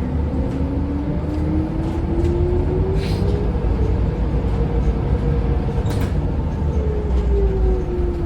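Scania L94UB bus under way: a steady low engine rumble with a whine that rises in pitch as it gathers speed over the first few seconds, holds, then falls near the end as it slows. Two brief clicks about three and six seconds in.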